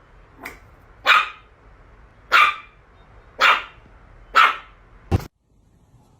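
A dog barking: four loud single barks about a second apart, after a softer one. A short knock follows, then the sound cuts off abruptly.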